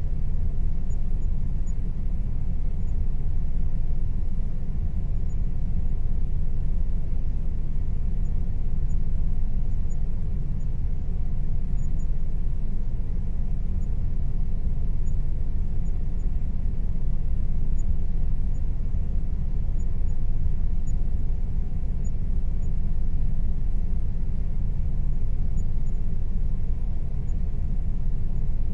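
Air conditioner running steadily: an even, low-pitched whooshing hum with a faint steady tone above it.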